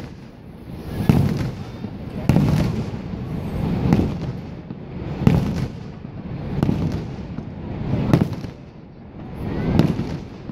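Aerial fireworks shells bursting in a steady sequence, a deep boom about every second or so, each followed by a rolling rumble as it fades.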